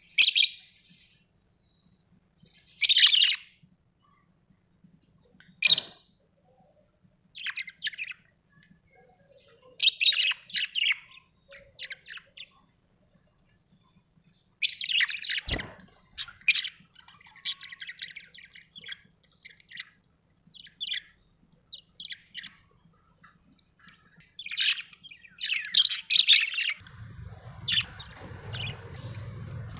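Parrots calling with sharp chirps and squawks in short bursts, a few seconds apart at first and then coming thick and fast. A low hum comes in near the end.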